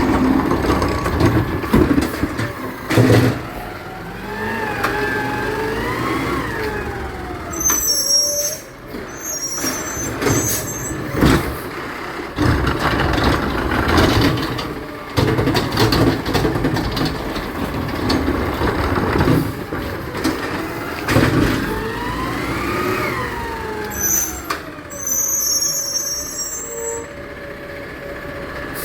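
Garbage truck working: its engine revs up and falls back twice, with sharp metallic knocks and short high squeals and hisses between.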